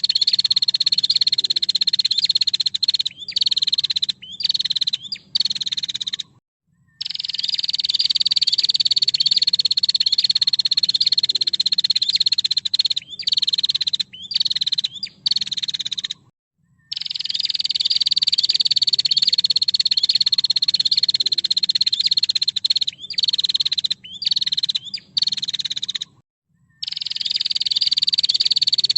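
Female prenjak (prinia) calling: a loud, buzzy, high trill held for about six seconds, then a few short broken bursts and a brief pause. The phrase repeats three times at even spacing, as in a looped training recording.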